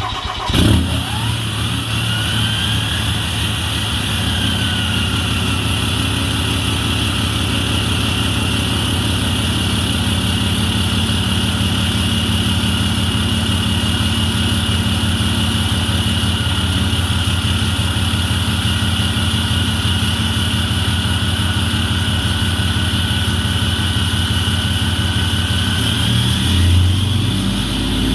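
Turbo diesel pickup engine with a deleted, 4-inch straight-pipe exhaust, just fired up: it flares about half a second in, then settles into a loud, steady idle with a high whistle riding over it. Near the end the engine note briefly rises and shifts.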